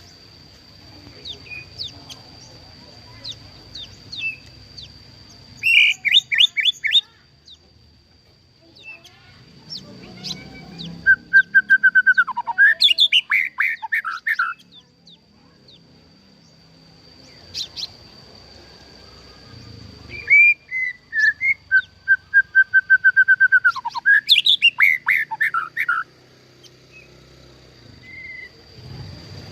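White-rumped shama singing in bursts, with pauses between: fast runs of rapidly repeated notes and varied whistled phrases. A faint steady high tone runs underneath.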